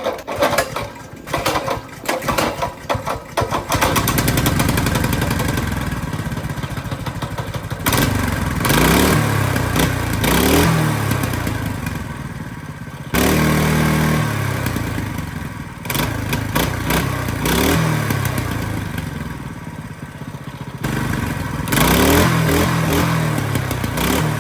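Mini bike's small single-cylinder engine, pull-started on its newly fitted carburettor. It sputters unevenly for the first few seconds, catches and runs, then is revved up and down several times.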